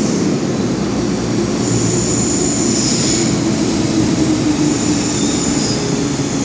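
MTR M-Train metro train pulling into a station and braking, a steady rumble of wheels and motors with a high-pitched brake or wheel squeal twice, about two seconds in and again about five seconds in.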